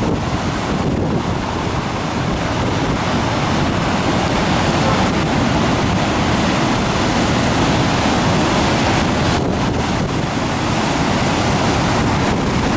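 Heavy storm surf pounding on the Mediterranean shore in a gale, with strong wind buffeting the microphone. A dense, steady roar with no lulls.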